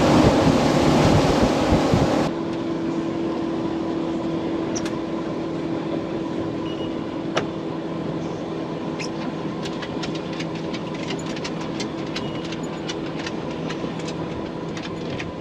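Boat under way with wind and water rushing for about two seconds, then a sudden cut to a boat engine idling with a steady hum, with many sharp, irregular clicks in the second half.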